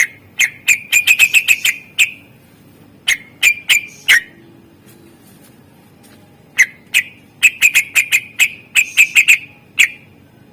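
Greater green leafbird (cucak ijo) singing in rapid runs of sharp, short whistled notes: a fast burst, a brief few notes, a pause of about two seconds, then a longer fast run.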